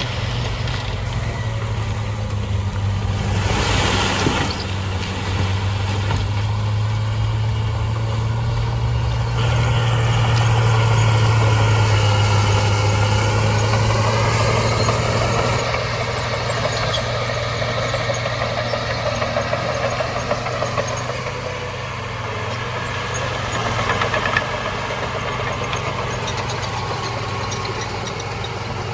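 Heavy diesel engine of an earthmoving machine running steadily, with a brief loud rush about four seconds in and a whining note that wavers through the middle.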